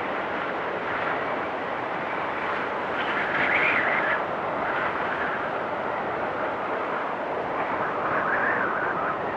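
Wind storm blowing steadily with a whistling edge, swelling into stronger gusts about three seconds in and again near the end.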